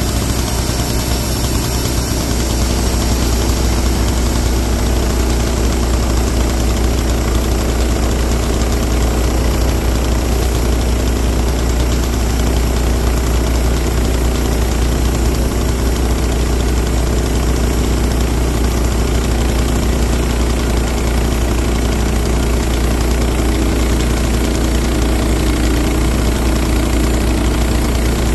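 Wood-Mizer band sawmill's engine running steadily while the mill saws a cut off a large log.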